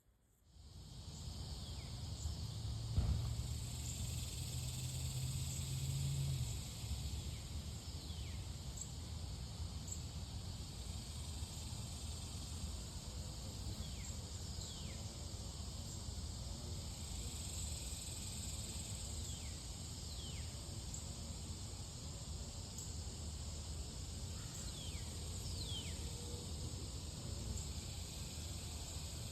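Outdoor ambience with birds repeatedly giving short, falling whistled calls every second or two, over a steady high insect-like drone and a low rumble. A low hum runs through the first few seconds, and a single knock comes about three seconds in.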